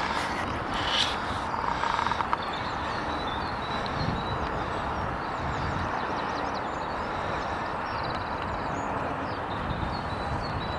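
Small birds twittering with many short, high chirps over a steady rushing noise, and a few clicks in the first two seconds.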